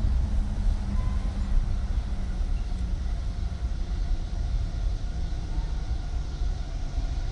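Steady low rumble of a train near the grade crossing, out of sight, with a faint engine drone that fades a few seconds in.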